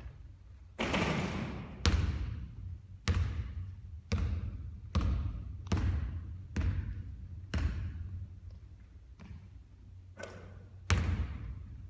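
A basketball bouncing on a hard court: about ten sharp thuds at uneven intervals, each with an echoing tail, with a quieter gap before the last two.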